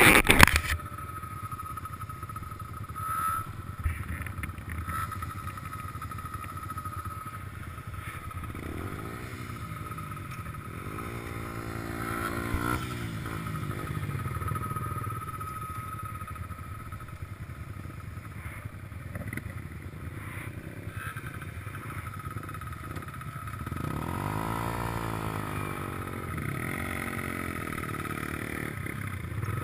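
Small 150 cc racing motorcycle engines running, with two spells where the revs rise and fall, about 9 seconds in and again about 24 seconds in. A short loud burst comes at the very start.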